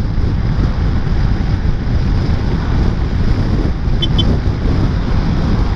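Wind buffeting the microphone of a moving scooter, a loud, steady rumble with the scooter's running mixed in. Two short high beeps sound about four seconds in.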